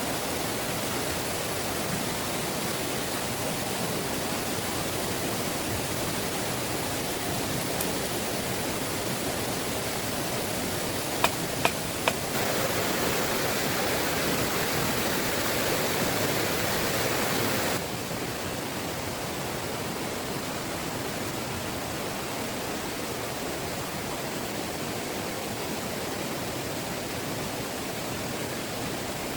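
Heavy rain falling steadily. About eleven seconds in come three sharp clicks, then the rain is louder for about five seconds before dropping back suddenly.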